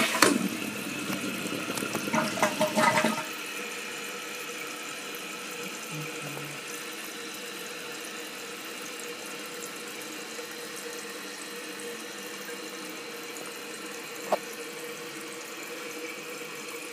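Dual flush toilet on half flush with the tank open: a loud rush of water for the first three seconds, then the tank refilling, with a steady hiss of water through the fill valve and a faint steady whistling tone. One short click about fourteen seconds in.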